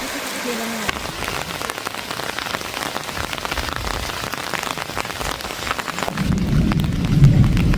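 Steady rain falling, with many separate drops ticking on a surface. About six seconds in, a low rumble sets in and grows louder.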